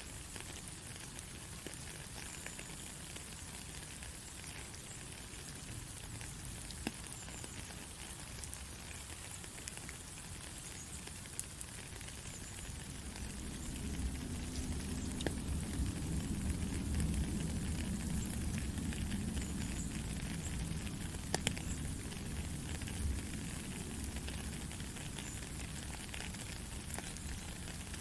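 Heavy rain falling steadily: an even hiss with scattered sharp drop ticks. About halfway through, a low rumble of thunder swells up and rolls on for several seconds before easing off.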